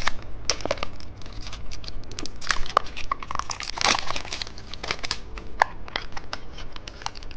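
Plastic wrapping of a phone-shaped novelty candy being handled and opened, a run of many short, irregular crackles and clicks.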